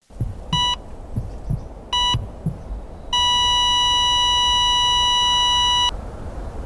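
Hospital heart monitor beeping twice over low heartbeat thumps, then a long steady flatline tone of about three seconds that cuts off suddenly.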